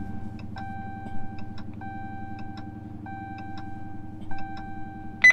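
Chrysler 300's engine idling just after starting, over a dashboard warning chime that repeats in roughly one-second tones and a steady ticking of about three a second as the lights flash. Two short, sharp beeps come at the very end.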